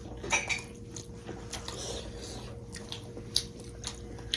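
Close-miked eating sounds: wet chewing and biting of food, with a few short clicks and smacks, over a faint steady hum.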